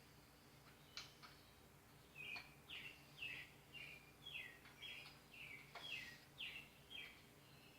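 Faint bird calling: a run of short, falling chirps, about two a second, starting a couple of seconds in, with a few soft clicks.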